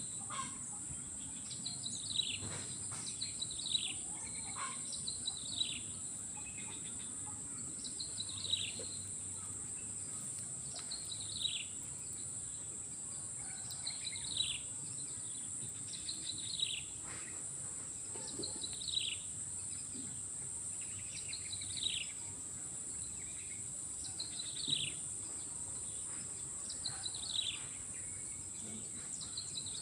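A bird repeating a short call that falls in pitch, about every two to three seconds, over a steady high insect drone.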